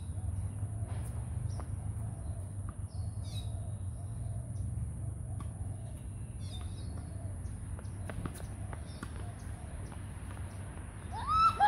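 Outdoor tennis ambience: sharp pops of a tennis ball being struck and bouncing now and then, over a steady low rumble and a steady high hiss, with faint bird chirps. Near the end a loud bird call of several quick rising and falling notes.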